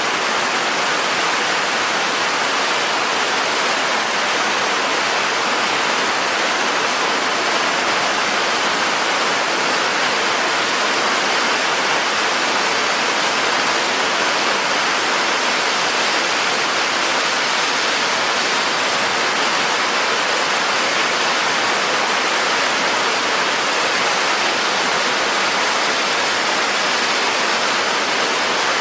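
Heavy summer-storm rain pouring down in a steady, loud, unbroken rush.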